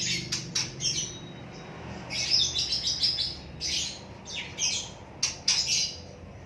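Small bird chirping in quick, repeated high bursts, on and off throughout.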